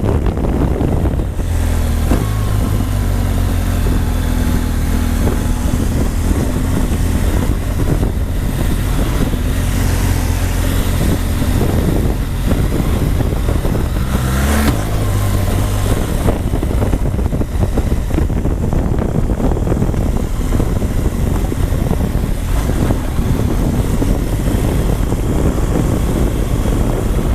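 BMW R1200GS boxer-twin motorcycle engine running under way, with heavy wind rumble on the helmet-mounted microphone, and a sharp knock about halfway through.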